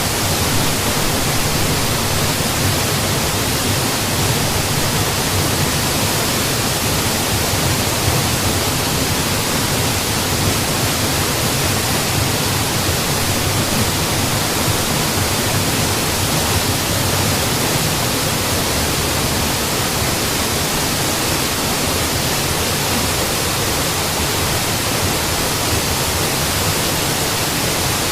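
Mountain waterfall: a loud, steady, unbroken rush of falling water with no changes.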